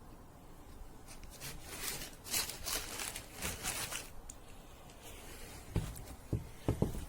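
Workbench handling noises: a few seconds of scraping or rustling, then several short, sharp knocks near the end.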